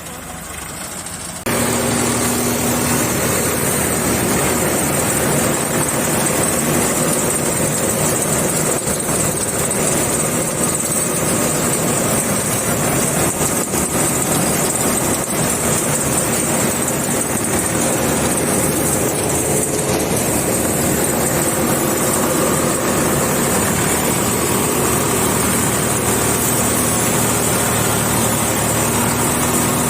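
Combine harvester running steadily while harvesting mustard, a loud continuous engine and machinery noise with a few steady tones through it. The noise jumps up abruptly about a second and a half in.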